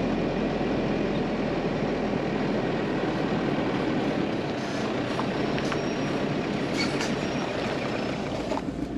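A vehicle towing a caravan driving on the road: steady engine and tyre noise that drops away abruptly near the end.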